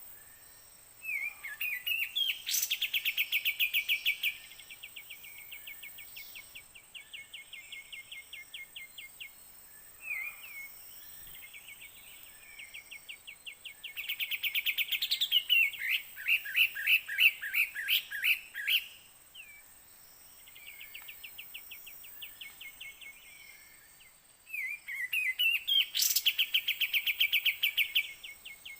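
Kapas tembak birds calling: loud bouts of rapid, chattering trilled notes, about a second in, around the middle and again near the end, with quieter trills between them. A faint steady high whine runs underneath.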